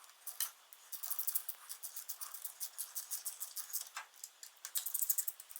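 Ratchet wrench clicking in quick bursts of fine, high-pitched ticks, with a few sharper metal clicks, as the exhaust header nuts are run down onto the cylinder head.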